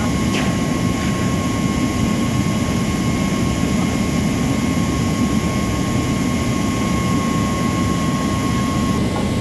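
Gas torch flame burning steadily with a low rushing noise, used on the centrifugal pump during impeller removal. A thin steady tone sits above it.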